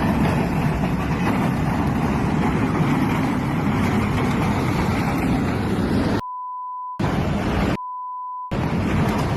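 Steady loud rumbling noise, cut twice by a one-pitch censor bleep lasting just under a second each, the second about a second after the first.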